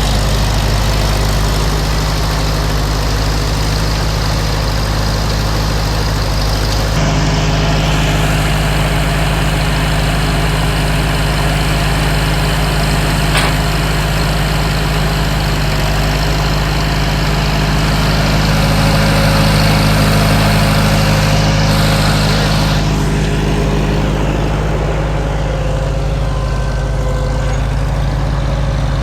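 Farmall Super M tractor's four-cylinder gasoline engine idling steadily. Its note steps up about seven seconds in and drops back a few seconds before the end.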